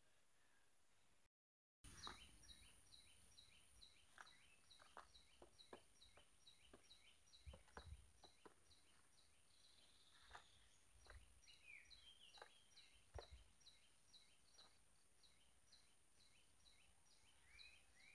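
Faint bird chirping outdoors: a short high chirp repeated steadily about three times a second, with scattered light taps in between. The sound drops out briefly about a second and a half in, then the chirping starts.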